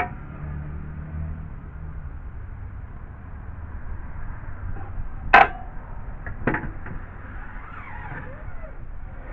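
A few sharp knocks and clicks of a hand tool being set against wooden deck boards, the loudest about five seconds in, over a low steady rumble.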